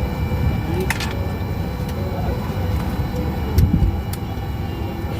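Airliner cabin noise while taxiing: the engines' steady low rumble with faint high steady tones over it, a few light clicks, and a heavier bump about three and a half seconds in.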